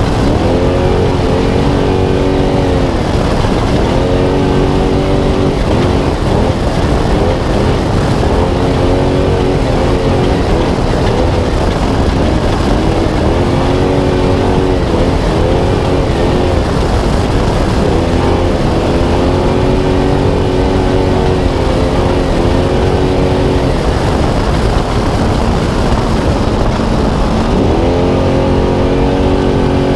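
Spec Trophy Truck's V8 engine at race pace, revving up and falling off again and again as the driver works the throttle through the course. Loud, constant rumbling noise from the truck at speed runs underneath.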